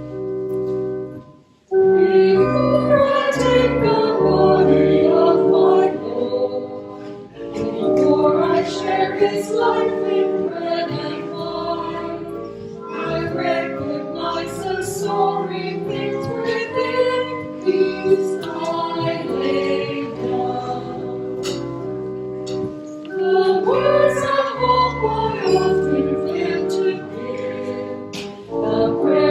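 Choir singing a hymn over a held organ-like keyboard accompaniment. The singing comes in about two seconds in, after a brief pause.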